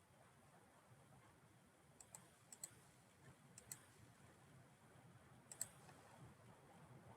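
Faint clicks of a computer mouse in quick pairs, four pairs between about two seconds in and just over halfway, against near silence.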